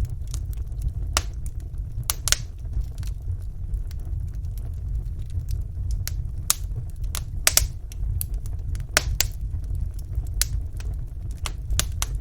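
Wood fire burning in a fireplace: a steady low rumble of flames with irregular sharp crackles and pops of burning logs, a few every second, several louder pops standing out.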